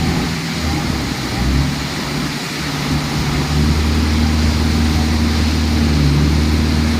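A heavy engine running steadily with a low hum that firms up about halfway in, over a constant rushing noise.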